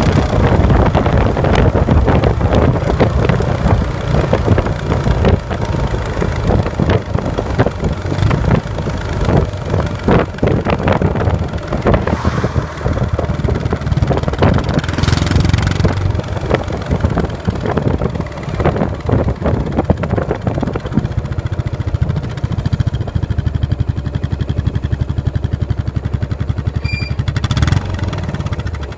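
Fuel-injected Yamaha SR single-cylinder engine running through an aftermarket Planus muffler while riding, its exhaust beat mixed with wind rush. In the last several seconds it settles to a steadier, even beat and then cuts off at the very end.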